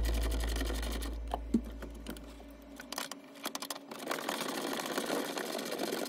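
Tail of background music fading out over the first few seconds. Then a ratchet wrench clicking in quick, uneven runs as it turns a bolt on the steering column.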